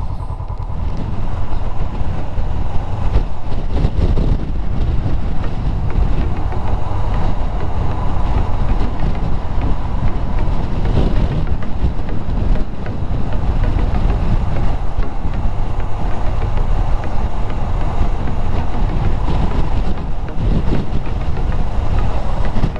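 Wind buffeting the camera microphone on a moving Honda CBR400R motorcycle, a heavy rumble with the engine running underneath.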